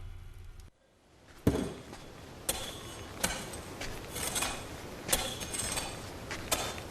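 Music dying away, a brief gap, then quiet outdoor film-scene sound with a few irregular knocks and clicks.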